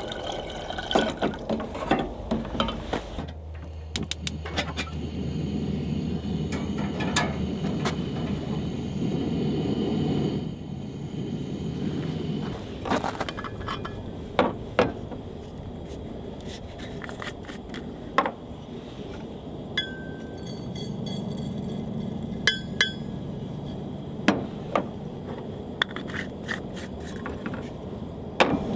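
Camp kitchenware being handled while coffee is made with a kettle: scattered clinks and knocks of a kettle, cups and utensils, with two long stretches of steady low rushing noise and a few brief high squeaks in the second half.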